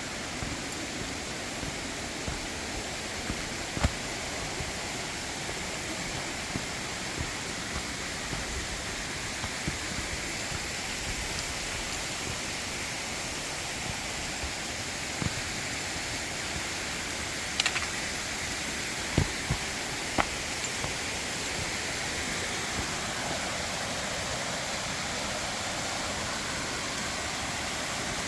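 Mountain valley stream rushing steadily over rocks, with a few sharp clicks now and then.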